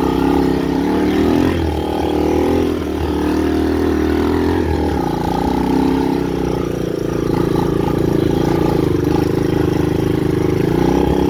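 Honda dirt bike engine running steadily, its pitch shifting slightly up and down.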